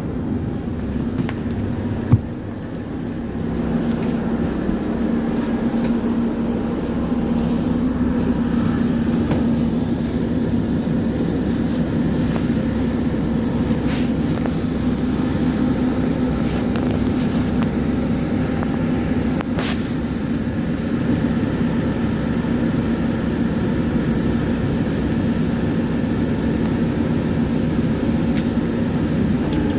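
Tram running: a steady low rumble with a constant hum, and a single sharp knock about two seconds in.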